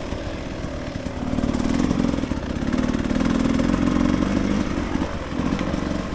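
Dirt bike engine running on the trail, its throttle opening and easing off so the pitch rises and falls, louder from about a second in.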